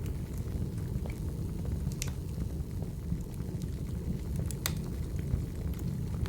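Wood fire burning in a fireplace: a steady low rumble of flame with scattered crackles, and two sharper pops about 2 and 4.5 seconds in.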